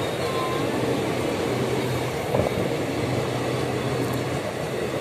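Indian Railways passenger coaches passing at speed, a steady rumble of wheels running on the rails, with one brief knock about two and a half seconds in.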